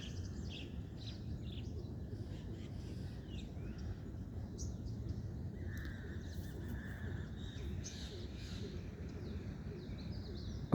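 Outdoor ambience: a steady low background rumble with scattered short bird chirps.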